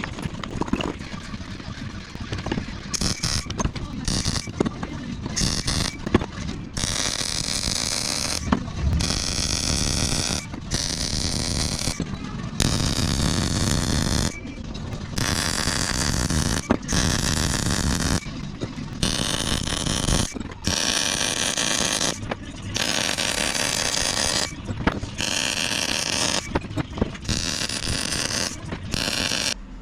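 Wire-feed (MIG) welder running short beads on steel gussets, a steady crackling hiss in bursts of one to two seconds with brief pauses between them.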